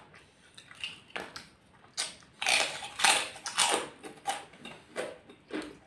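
Close-up crunchy chewing of crispy fried kerupuk crackers, a quick run of crackling bites that is loudest about two and a half to four seconds in.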